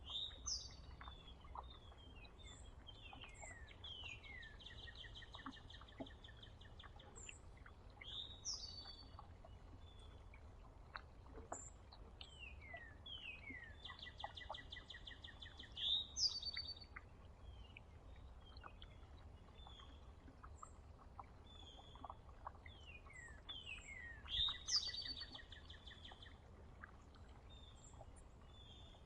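A songbird sings the same song three times, about ten seconds apart: a few quick notes sliding down in pitch, then a rapid trill lasting a couple of seconds. Short high chirps come in between, over a faint low rumble.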